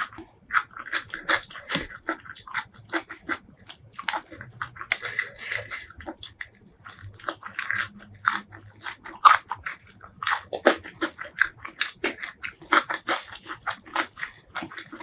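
Close-miked eating sounds from a spicy seafood dish being bitten and chewed: a dense run of short mouth clicks and chews, several a second, with no talking.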